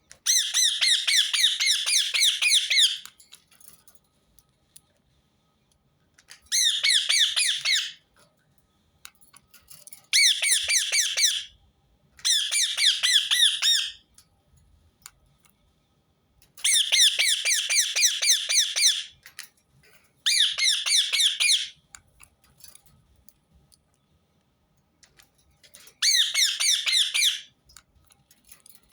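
Rose-ringed parakeet screeching in fast runs of short, shrill notes. The calls come in seven bursts of one to three seconds, with pauses between them.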